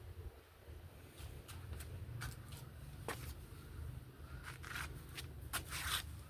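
A series of short, light clicks and scrapes of small objects being handled, the loudest just after three seconds and near the end, over a low steady hum.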